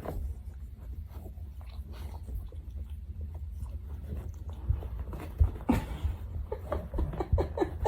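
A dog chewing a treat, with many small wet clicks and crunches, and a few short pitched sounds from the dog in the last couple of seconds.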